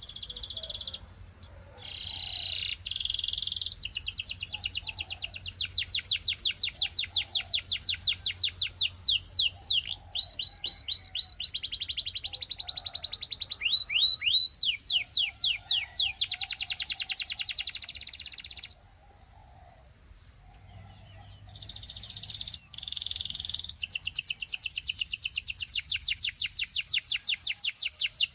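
Domestic canary singing a long song of rapid trills, each run of quick repeated notes followed by another at a different pitch. It breaks off for about two seconds roughly two-thirds of the way through, then starts a new phrase.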